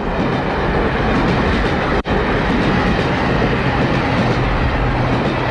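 A moving train's steady running rumble and rattle, as heard from inside a carriage, used as a sound effect. It cuts out for an instant about two seconds in.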